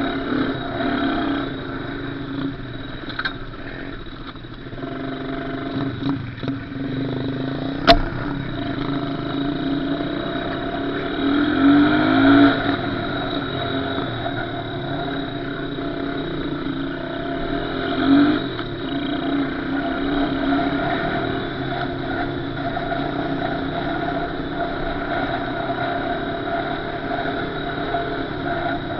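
Small off-road engine running steadily at part throttle, revving up briefly twice, about midway through and again several seconds later. There is a single sharp click a little before the midway rev.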